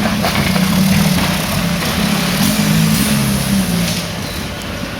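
1.9 TDI diesel engine of an off-road vehicle working under load, its pitch wavering up and down, easing off about four seconds in.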